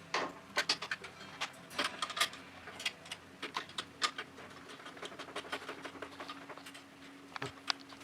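Irregular small clicks and taps of parts being handled and fitted on a bench drill during assembly, thicker for the first few seconds and then sparser, over a faint steady hum.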